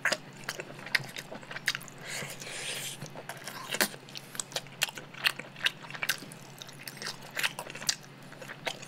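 Chewing and mouth sounds of someone eating tender roast chicken meat by hand, with many small irregular clicks and smacks.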